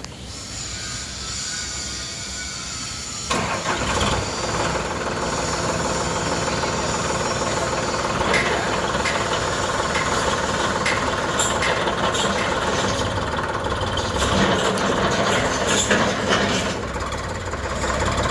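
Sonalika 745 tractor's diesel engine starting: it catches with a sudden jump in level about three seconds in, then runs steadily, with occasional short clicks over it.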